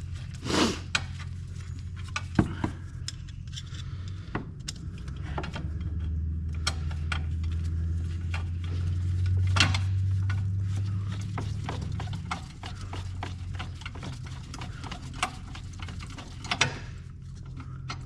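Irregular clicks and knocks of hand tools and metal fasteners being handled during bolt-up work, over a steady low hum that grows louder from about six to twelve seconds in.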